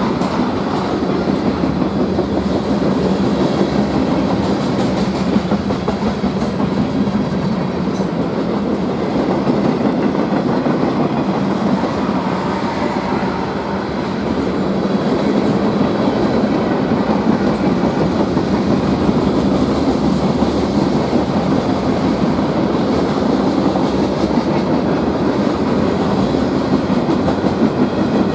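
Freight cars of a manifest train rolling past at speed: a steady rumble with the clickety-clack of steel wheels on the rails.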